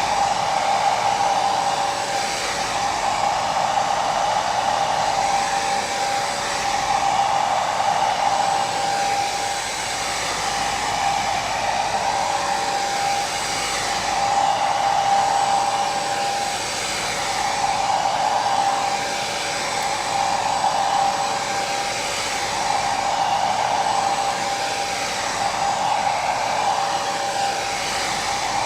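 Hair dryer running continuously: a steady blowing whir with a constant motor whine, gently swelling and easing every couple of seconds.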